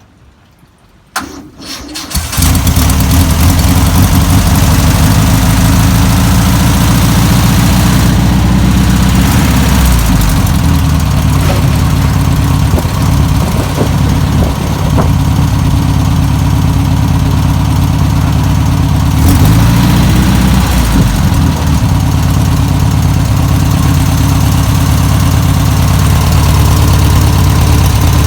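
1962 Volkswagen Type 2's air-cooled flat-four engine cranked by the starter about a second in, catching almost at once and then running steadily, with the revs rising and falling a few times. It is running on fuel drawn from its own tank through newly fitted fuel line after sitting for over 40 years.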